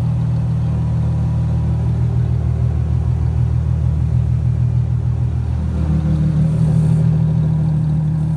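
Plymouth Prowler's V6 running at idle through a Sweet Thunder 18-inch muffler with built-in X-pipe, the tip baffles removed, giving a steady deep exhaust note. About six seconds in the note steps up slightly and gets a little louder.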